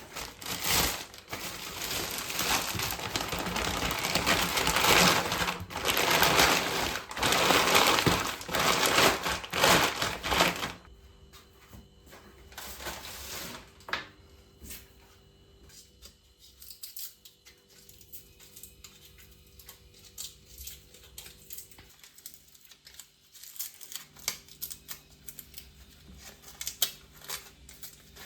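Rustling and crinkling handling noise for about the first eleven seconds, then much quieter scattered light taps and clicks.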